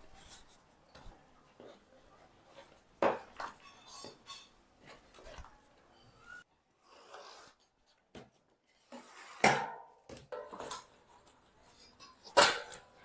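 Intermittent clinks, taps and rubbing of metal tools and bicycle parts being handled at a workbench, with sharper knocks about three seconds in and again near the end.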